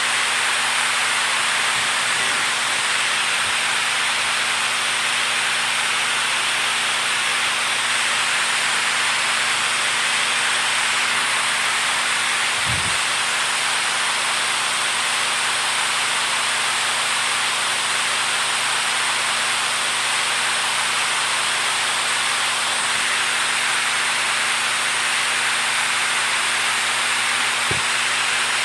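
Water rushing steadily as an even, unbroken wash of noise, with a faint low thud about halfway through.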